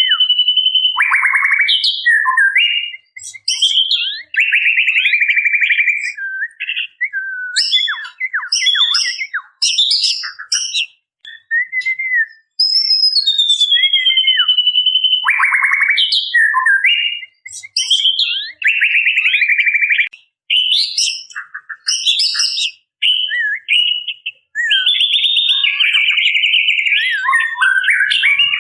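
Female white-rumped shama calling: rapid buzzy rattling trills and short chirps, with a long falling whistle about halfway through that starts the phrase over. It is the rattling call of a female in breeding condition calling for a male.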